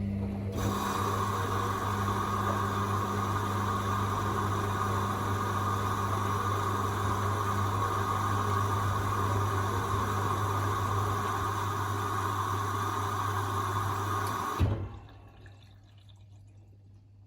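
Hoover Rapid 44 washing machine taking in water: a steady rush of water that cuts off suddenly with a clunk about 15 seconds in, leaving a low hum.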